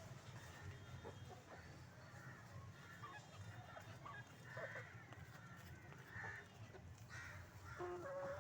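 Chickens clucking faintly, a scatter of short calls, with a couple of brief held notes near the end over a steady low hum.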